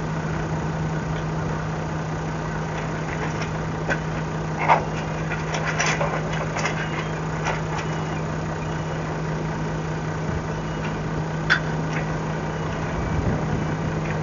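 Fishing boat's engine running steadily at idle, a constant low hum, with a few sharp knocks or clatters on board, the loudest about five seconds in and another near eleven seconds.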